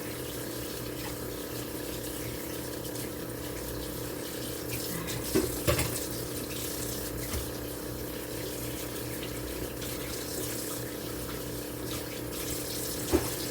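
Kitchen tap running steadily into a sink while fish is rinsed under it, with a steady hum beneath the rush of water. A few short knocks in the sink about five to six seconds in and again near the end.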